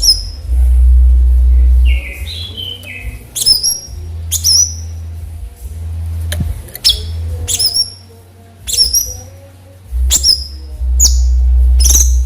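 Cucak cungkok calling in the wild: a series of short, sharp, high-pitched calls, each dropping quickly in pitch, about once a second, with a brief run of lower stepped notes a couple of seconds in. A loud low rumble comes and goes underneath.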